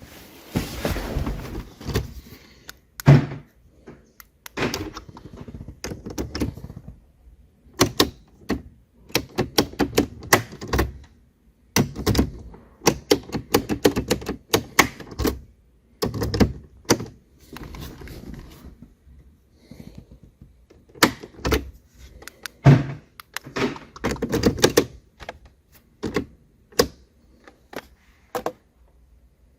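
Irregular clicks, taps and knocks of hard objects being handled, in quick runs with short pauses and a few heavier thumps.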